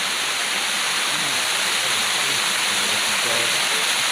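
Waterfall in a tropical jungle pouring steadily, a constant loud rushing roar of falling water.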